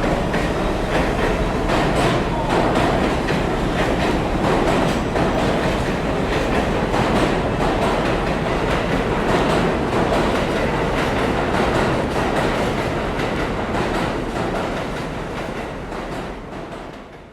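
Subway train running, with a steady rumble and wheels clicking over the rail joints, fading out near the end.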